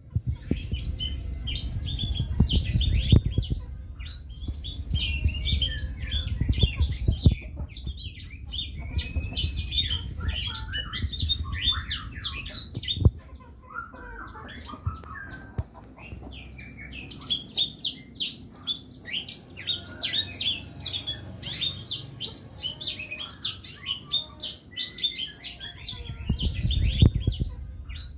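Blackthroat (black-throated canary) singing a long, rapid twittering song of high chirps, breaking off for a few seconds midway and then resuming, over a low background rumble.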